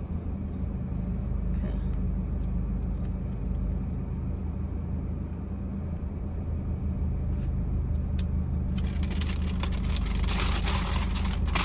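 Steady low hum of an idling car, heard from inside the cabin, with a few light clicks. About nine seconds in, a loud rustling hiss starts and carries on.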